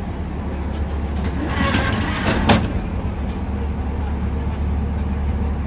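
Tram running on its rails, heard from inside the car: a steady low rumble of wheels and running gear, with a brief rattle and one sharp wheel knock about two and a half seconds in.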